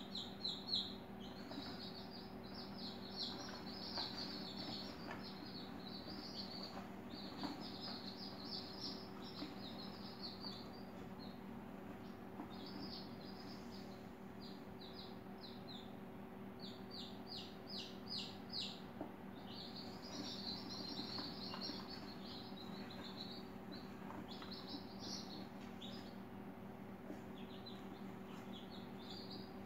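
Small birds chirping in quick runs of short, high chirps that come and go, over a steady low hum.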